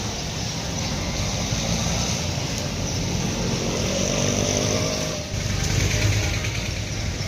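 A motor vehicle running close by over a steady hiss of street noise, briefly dropping about five seconds in and then growing louder.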